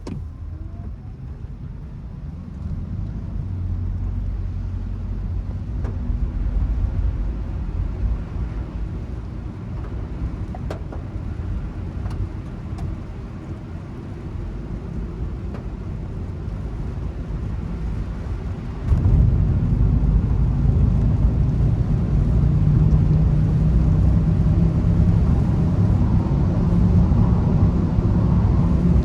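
A car driving, a steady low rumble of engine and road noise that gets suddenly louder about two-thirds of the way in.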